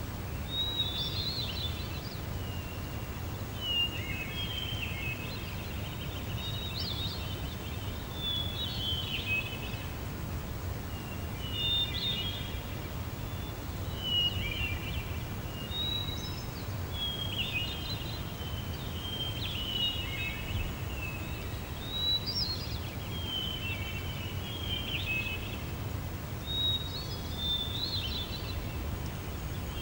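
Small birds chirping, short rapid calls repeating every second or two, over a steady low rumble of outdoor ambience.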